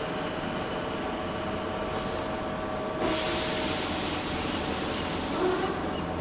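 A train running, with a steady hum and a faint whining tone. About halfway through, a louder hiss starts suddenly and runs for nearly three seconds.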